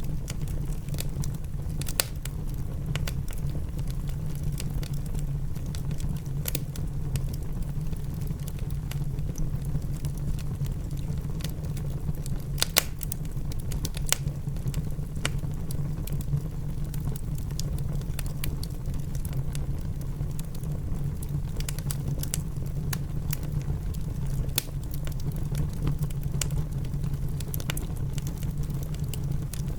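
Wood fire crackling in a fireplace, with irregular sharp pops, the strongest about halfway through, over a steady low rumble of rain.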